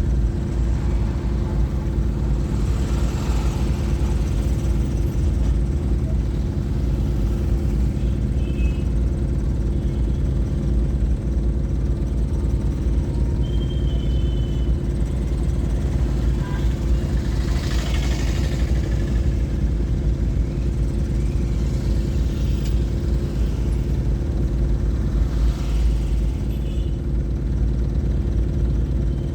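Vehicle engine running steadily with a constant low hum. A few brief swells of noise rise and fade, around 3, 18 and 26 seconds in.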